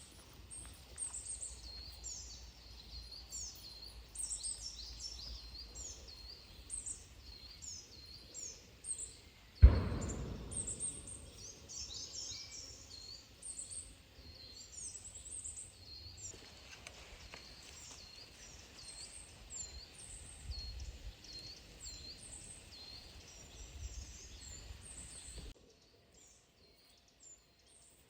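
Woodland birdsong: many small birds chirping and calling in quick, high, sweeping notes, over a low rumble. A single loud thump about ten seconds in is the loudest sound. The birdsong cuts off a few seconds before the end.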